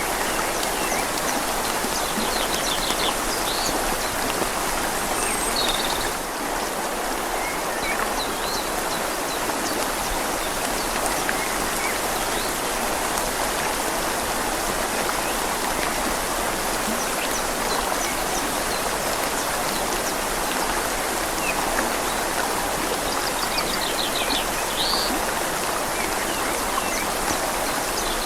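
Steady rain falling on leaves, mixed with the gentle rushing flow of a river.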